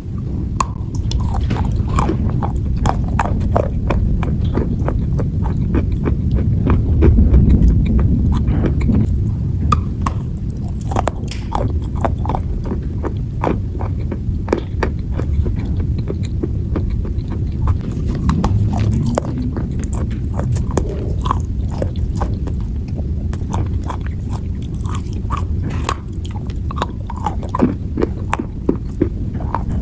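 A person biting and chewing crunchy dry clay: many sharp, irregular crunches and cracks over a steady low chewing rumble.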